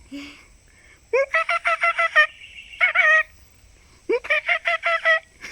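A large bird of prey calling in three bouts of quick repeated notes, about seven a second. Each bout opens with a rising note, and the bouts last up to about a second.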